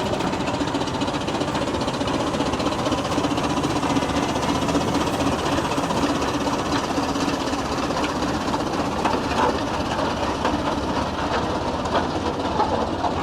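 Steam traction engine running, with a steady, rapid mechanical clatter.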